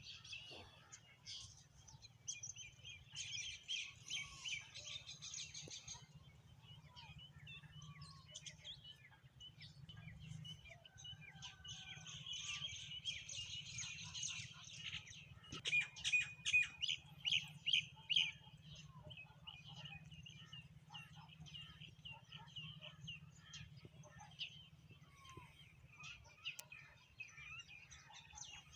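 A flock of sparrows chirping, with many overlapping chirps in dense chattering bouts. A run of loud, sharp chirps comes a little past the middle, over a faint steady low hum.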